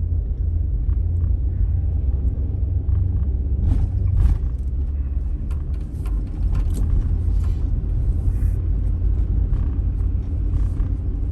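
Car driving: a steady low engine and road rumble, with a few short clicks and knocks about four seconds in and scattered ticks after.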